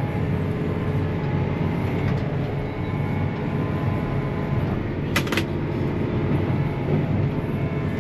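Large John Deere tractor diesel engine running steadily under heavy load, pulling a tractor stuck in deep mud. A brief sharp clatter comes about five seconds in.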